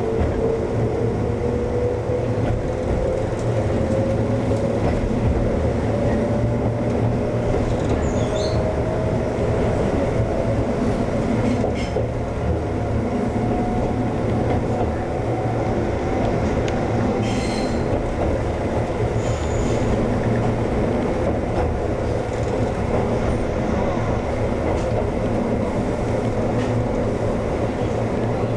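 Konan Railway 7000 series (ex-Tokyu 7000 series) electric train running along the line: steady rumble and rail noise with a thin whine that slowly rises in pitch over the first half, and a few clicks from the wheels on the track.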